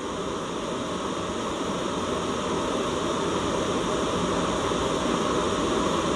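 Steady white-noise hiss with no tones or breaks, heavier in the low and middle range than in the highs, slowly growing louder.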